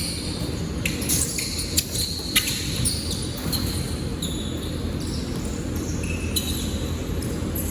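Basketball game in a gym: scattered ball bounces and short shoe squeaks over steady hall noise.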